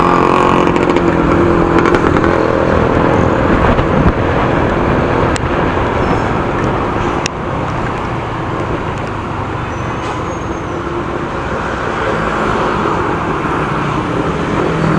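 Loud, steady rush of road and traffic noise heard from a moving motorcycle, with the engine running underneath.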